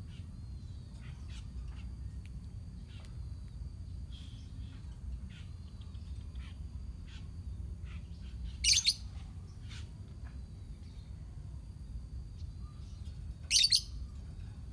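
A colony of lovebirds chattering with many short faint chirps, broken twice by a loud, harsh shriek, about nine seconds in and again near the end.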